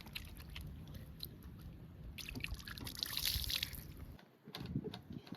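Water running and sloshing. It stops about four seconds in and is followed by a few light knocks.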